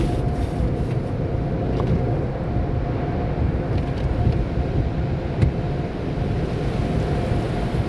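Sonny's car wash tunnel equipment running: a steady low mechanical rumble and churn with a faint steady whine.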